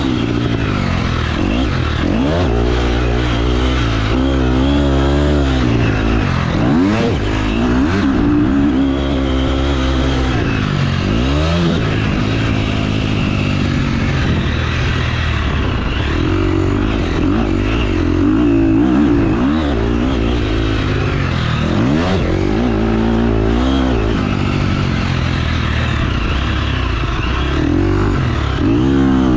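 Motocross dirt bike engine revving hard around a track, its pitch repeatedly climbing and dropping as the throttle is opened and shut, with a few stretches held steadier.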